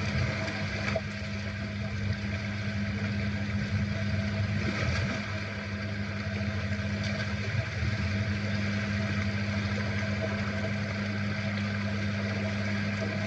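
Steady low motor hum with a constant drone, like an engine running at idle, over a faint even hiss.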